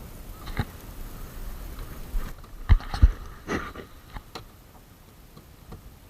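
A few sharp knocks and clicks over a low background; the loudest two come close together about halfway through.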